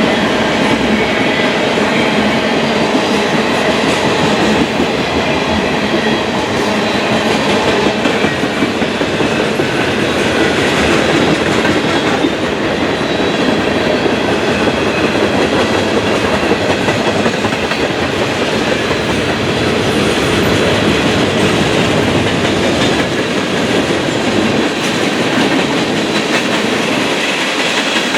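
A train passing close by: a steady, loud run of wheels on rail with clickety-clack from the cars.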